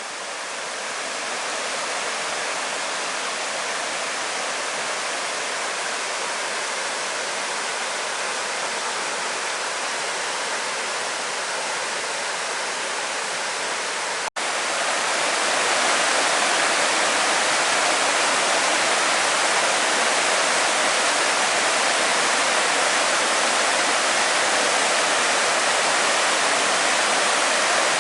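Steady rush of flowing water from a stream or river. It drops out for an instant about halfway through, then comes back louder and fuller.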